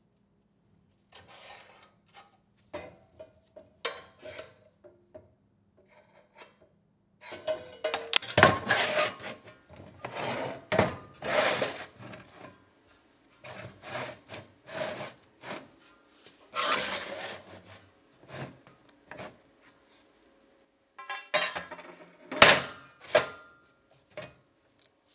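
Metal being worked by hand: irregular bursts of scraping and rubbing mixed with clinks and clanks of steel tools and sheet metal, each lasting about a second, with short pauses between them.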